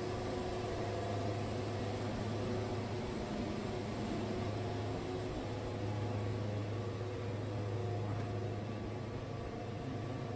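Wood-Mizer band sawmill running steadily with its engine humming low as the band blade cuts through a red cedar log. It is sawing well, which the sawyer takes as a sign that the resharpened blade is sharp. The sound eases slightly near the end.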